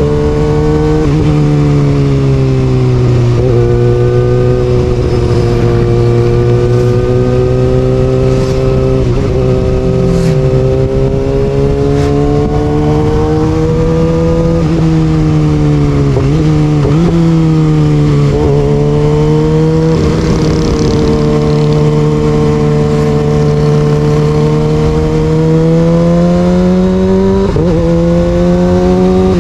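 Kawasaki ZX6R inline-four engine running through an Austin Racing aftermarket exhaust while the bike is ridden at steady mid revs. The pitch dips and climbs briefly a few times as the throttle is eased and reopened.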